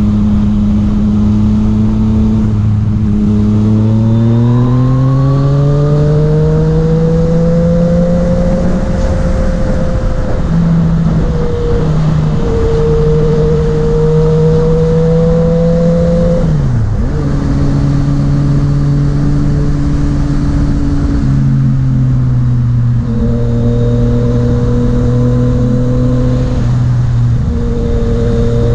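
Yamaha MT-09's three-cylinder engine running under way, its pitch climbing between about three and eight seconds in as the bike accelerates. The pitch then holds steady with a few sudden steps down and up, over steady wind rush.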